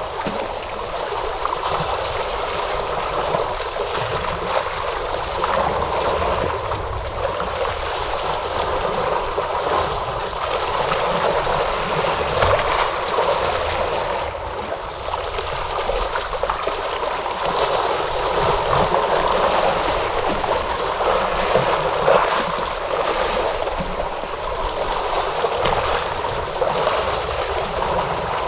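Ocean surf washing and churning steadily, with only small swells in level and no clear break between waves.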